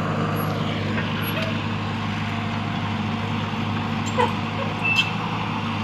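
Excavator's diesel engine running at a steady drone, with a couple of short knocks about four and five seconds in.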